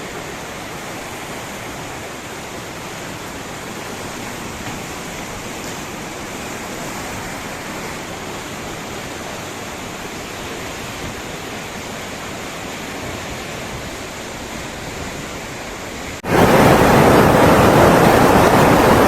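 Rushing floodwater, a steady dense rush of noise; about sixteen seconds in it cuts abruptly to a louder rush.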